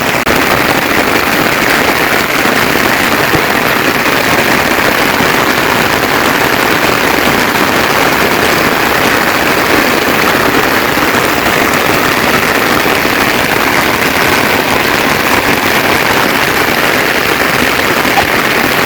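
Steady rain falling, a dense even patter that holds at the same loudness throughout.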